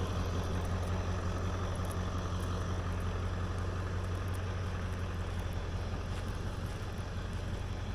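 Motor vehicle engine idling, a steady low hum.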